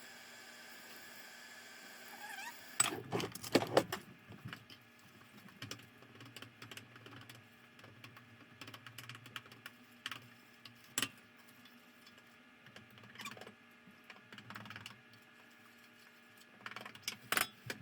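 Irregular light clicks and clattering knocks of small hard objects being handled, busiest about three seconds in and again near the end.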